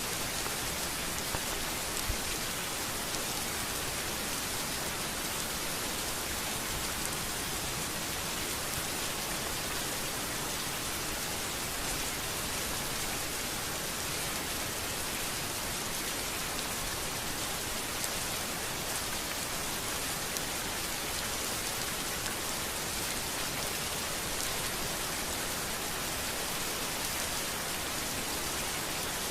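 Steady rain falling on a street, an even hiss with a few faint drop ticks.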